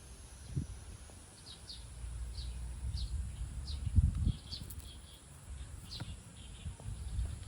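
A small bird chirping repeatedly in short, high, falling calls, about two a second, over a low rumble, with a single thump about four seconds in.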